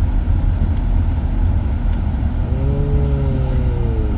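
Steady low rumble of a car's engine and road noise heard from inside the cabin. From about two and a half seconds in, a drawn-out tone slowly falls in pitch and ends near the close.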